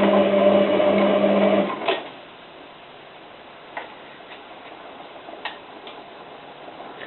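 Hotpoint 9534A washing machine's motor running with a steady hum during the heating stage of a boil wash, cutting out about two seconds in. After that the machine is quiet apart from a few faint clicks.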